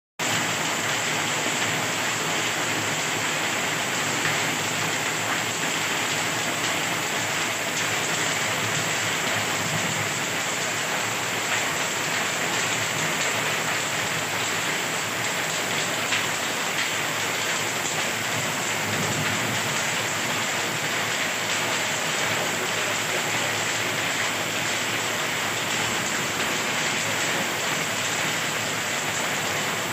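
Heavy rain pouring steadily onto the ground in a downpour.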